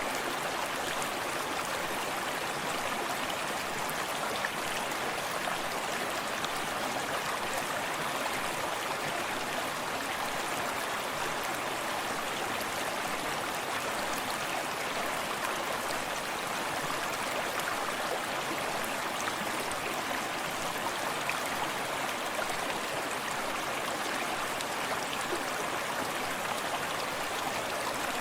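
Forest stream running steadily, water babbling and splashing over stones.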